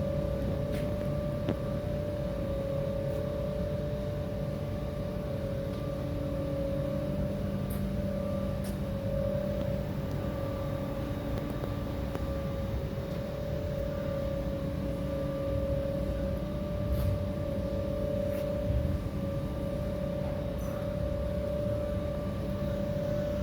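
Steady machine hum with a constant mid-pitched whine over a low rumble, and a few faint clicks.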